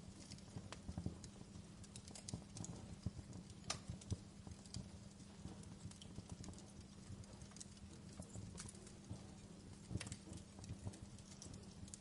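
Wood fire crackling in a fireplace: irregular pops and snaps over a low, steady rumble. Sharper pops come about four seconds in and near ten seconds.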